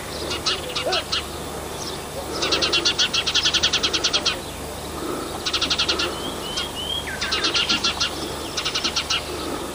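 A small songbird singing: several phrases of fast, evenly repeated chirps, the longest about two seconds, with a few short rising whistled notes between them.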